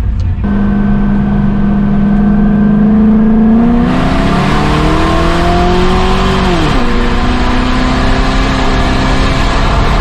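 Race car engine running hard on an oval track: a steady drone, then the pitch climbs for about three seconds as it accelerates and falls sharply near the seven-second mark before settling steady again.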